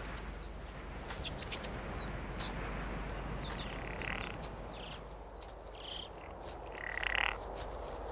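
Outdoor wild-animal ambience: a steady hiss with scattered sharp clicks and short high chirps. Two brief, louder hoarse calls come about four and seven seconds in, the second the loudest.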